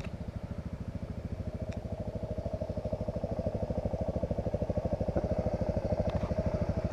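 Suzuki DR-Z400S single-cylinder engine running as the dual-sport motorcycle approaches. Its rapid, even firing pulses grow steadily louder.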